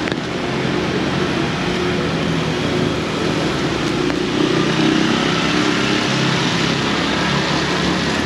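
Heavy rain pouring steadily, with a motor vehicle's engine humming under it.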